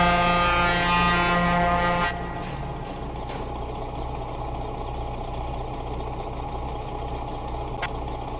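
A vehicle horn sounds one steady blast of about two seconds over a truck's diesel engine idling. A brief hiss of air follows about half a second after the horn stops.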